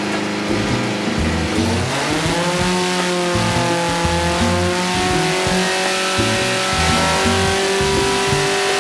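Volvo B230 2.3-litre inline-four on an engine dyno, revving up about two seconds in and then held at high revs under load through a pull, with music underneath.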